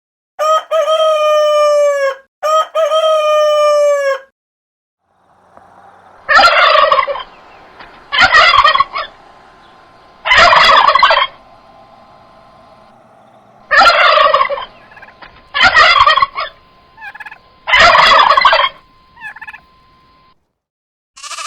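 A rooster crowing twice in quick succession, each crow a long call falling away at its end; then, after a short pause, a domestic turkey gobbling six times, about every two seconds, with a few softer calls near the end.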